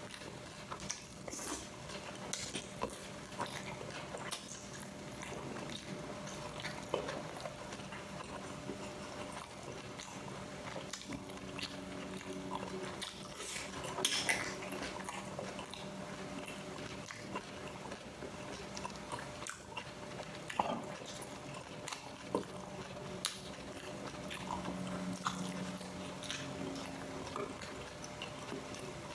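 A person chewing and biting food, with frequent short wet mouth clicks.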